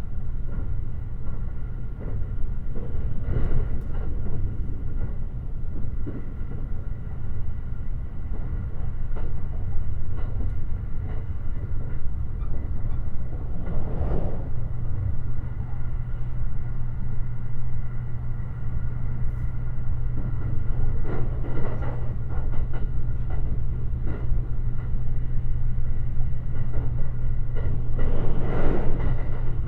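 Running noise of the Limited Express Shirasagi electric train at speed: a steady rumble with a low hum, swelling briefly into louder noise a few times.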